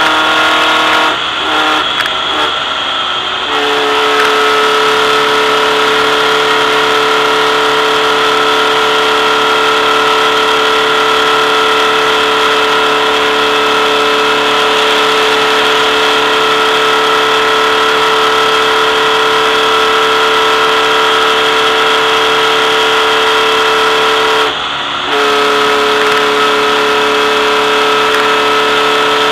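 Volkswagen race car's engine heard from on board, held at a steady high pitch under wind and road noise. The engine note drops and turns ragged about a second in, picks back up after two or three seconds, and dips again for about half a second near the end.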